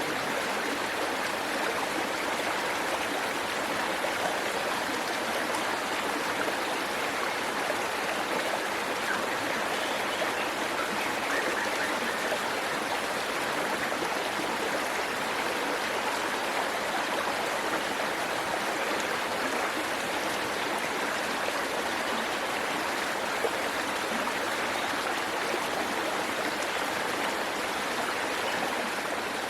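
Waterfall and stream water rushing steadily over rocks, an even, unbroken rush.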